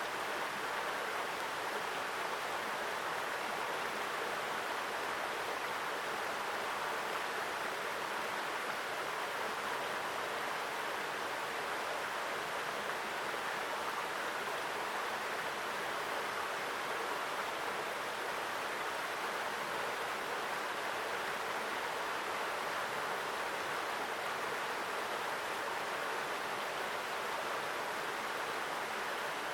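Mountain stream flowing strongly over rocks: a steady, even rush of water with no breaks.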